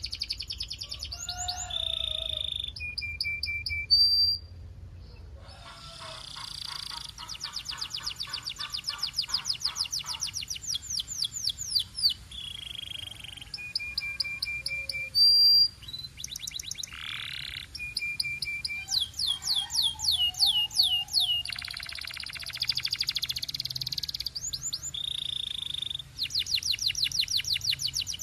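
Canary singing: fast trills of rapidly repeated falling notes alternating with short held whistles, with a brief lull about four seconds in.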